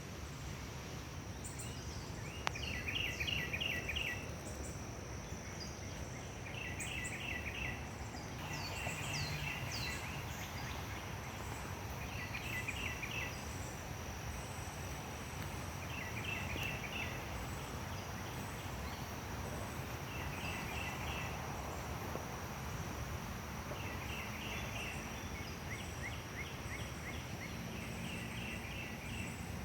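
A bird repeating a short, rapid run of chattering notes every few seconds, with a few quick falling whistles, over a steady high insect buzz and outdoor background noise.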